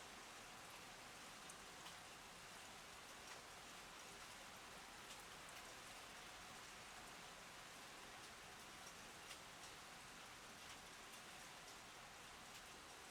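Rain falling steadily and faintly, with scattered individual drops ticking sharply now and then.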